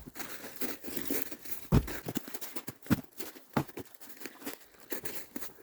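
Irregular crunching and crinkling rustles, with a few louder crunches spaced about a second apart.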